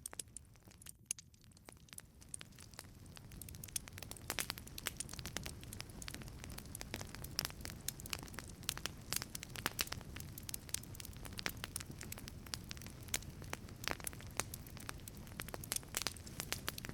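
Wood fire burning in a wood-fired pizza oven: dense crackling and sharp pops over a low, steady rumble of flame. The crackling grows louder and busier a few seconds in.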